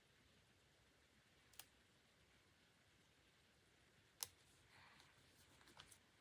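Near silence broken by a few small sharp clicks and a brief soft rustle: stationery being handled while decorating a planner page.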